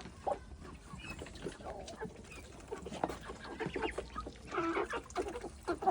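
A flock of chickens clucking, with many short overlapping calls and a louder, longer call about four and a half seconds in.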